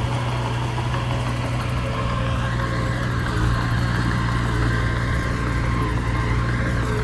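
Diesel engine of an earthmoving machine running steadily at an even pitch, with a deep, constant hum.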